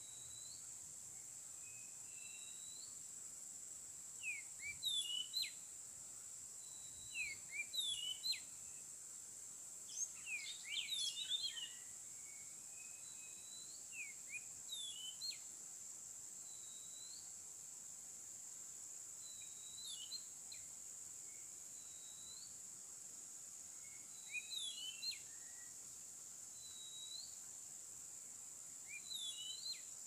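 Oriental magpie-robin singing short phrases of clear whistles and quick up-and-down chirps every few seconds, busiest about ten seconds in. Under the song runs a steady, high insect drone.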